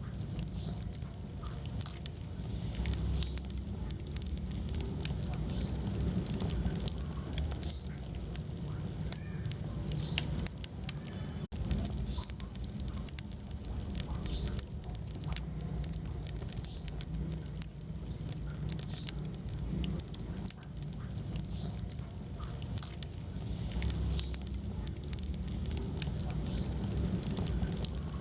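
Wood fire in a fireplace, crackling with frequent small pops over a steady low rumble of the flames. The sound cuts out for an instant about eleven seconds in.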